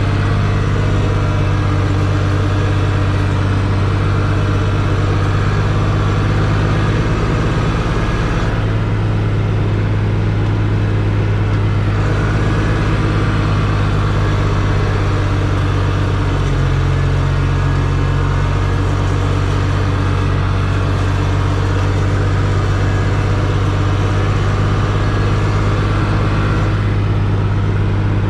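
Tractor engine running steadily at close range, its note shifting slightly a couple of times as the engine speed or load changes.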